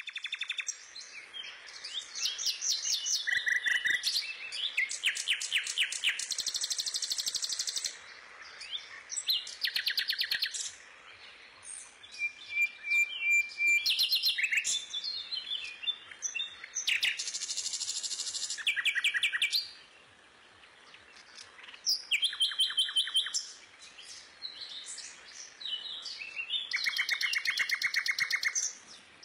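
Small birds chirping and singing, in bursts of rapid high trills and repeated chirps with short pauses between them.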